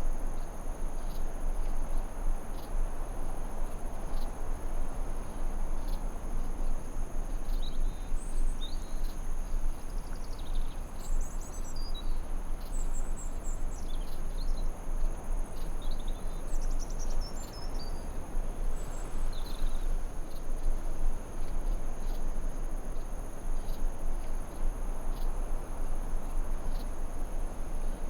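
Forest ambience: a steady chorus of crickets with continuous high-pitched tones over an even rushing background noise. Short bird chirps and twitters come in about eight seconds in and fade out by about nineteen seconds.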